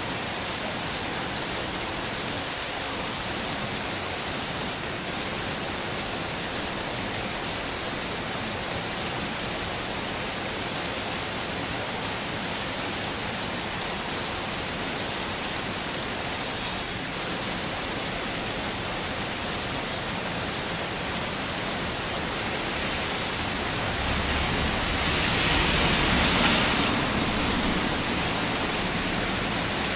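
Heavy rain falling steadily, swelling louder for a few seconds near the end with a low rumble underneath.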